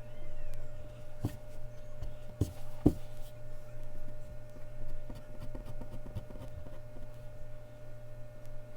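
Mechanical pencil drawing on Bristol paper: soft scratching strokes with a few sharper taps, the loudest about three seconds in.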